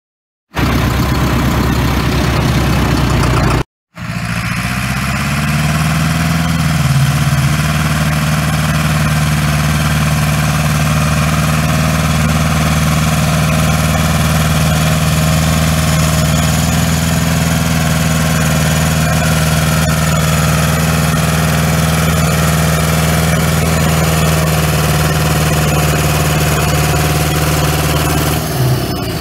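Tractor engine running at a steady speed. The sound cuts out for a moment about four seconds in, then resumes with a slight shift in engine pitch a few seconds later.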